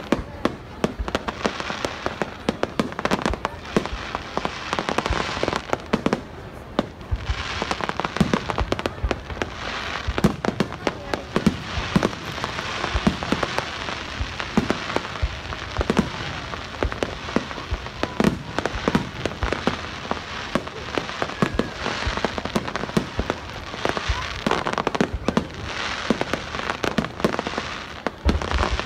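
Fireworks display: a dense, continuous barrage of aerial shell bursts, many sharp bangs a second over crackling, with a brief lull about six seconds in.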